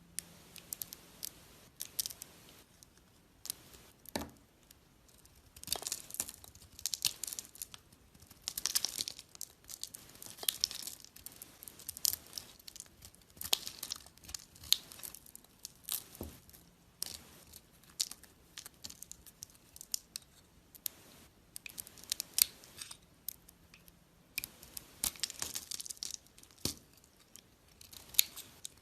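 A knife cutting and scraping through bar soap, with crisp crackling and scraping strokes coming in irregular clusters, each with short sharp clicks.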